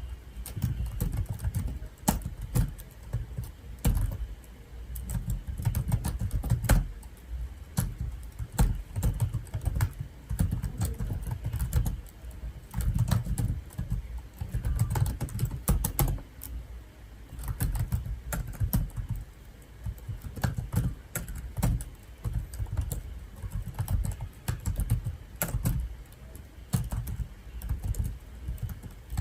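Typing on a computer keyboard in irregular bursts of keystrokes with short pauses between them, each press giving a click with a low thump.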